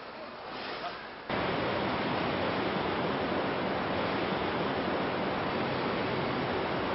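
A quiet outdoor background that cuts off abruptly about a second in, giving way to a loud, steady rushing noise, much like wind on an open-air microphone.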